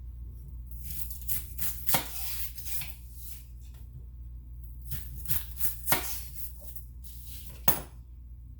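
Kitchen prep handling on a counter: two spells of scraping and rustling, with sharp knocks of utensils or cookware about two seconds in, about six seconds in and near the end.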